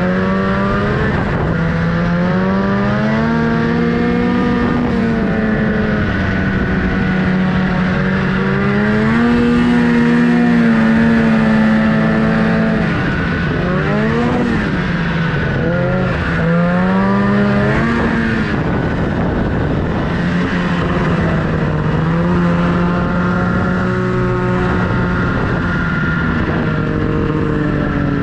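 Snowmobile engine running under throttle, its pitch rising and falling as the rider speeds up and eases off, with a few quick drops and climbs in pitch around the middle.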